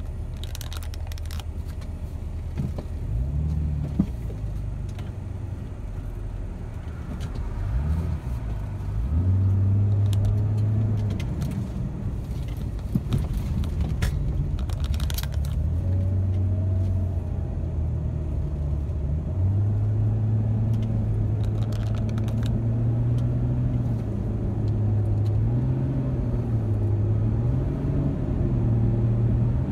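Ford Mustang's engine heard from inside the cabin while driving, its note rising and falling several times as the car speeds up and eases off, over steady tyre and road noise. A few light clicks and rattles come through now and then.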